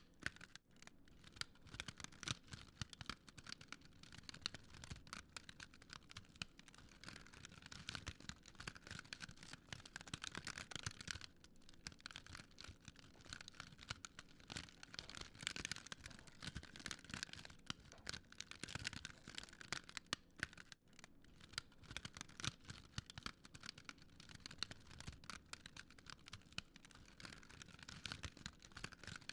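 Wood fire crackling: a faint, dense run of small snaps and pops with no letup.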